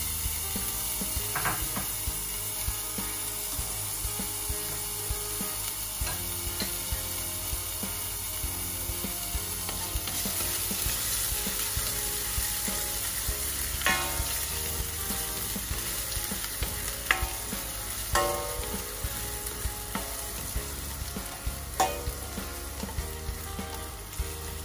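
Chopped garlic sizzling in hot oil in a stainless steel frying pan while a plastic spoon stirs it, with a few sharp knocks of the spoon against the pan, mostly in the second half.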